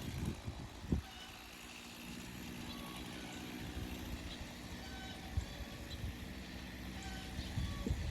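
An engine idling steadily, settling into an even hum about a second and a half in, with a few sharp knocks.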